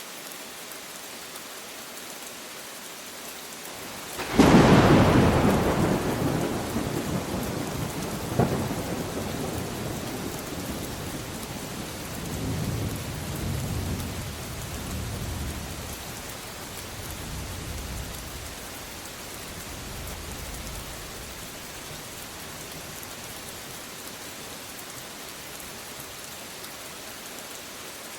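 Steady rain falling, with a sudden close thunderclap about four seconds in, a second sharp crack a few seconds later, then a low rumble that rolls on and fades away over the next dozen seconds.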